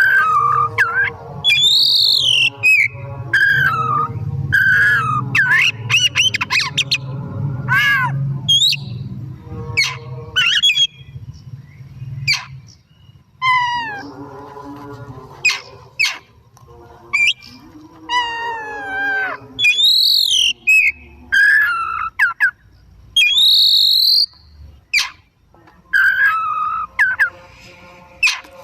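Oriental magpie-robin (kacer) in full song: a loud, varied run of whistled notes, rising and falling glides and sharp clicks, with a brief pause near the middle.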